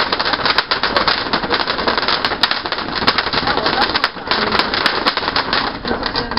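Fireworks crackling: a dense, continuous run of rapid sharp pops and snaps.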